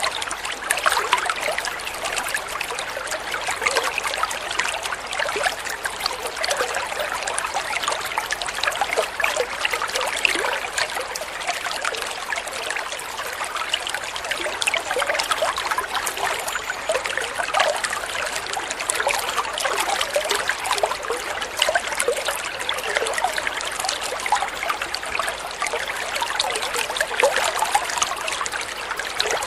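Water flowing and trickling steadily in a small stream, a continuous splashing babble.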